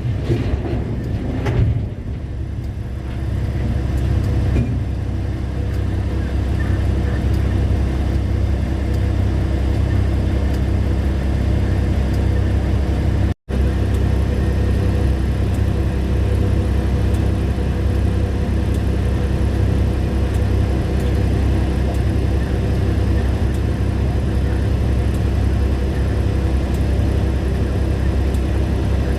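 Mining haul truck's large diesel engine running with a steady, deep rumble. The sound cuts out for an instant about halfway through.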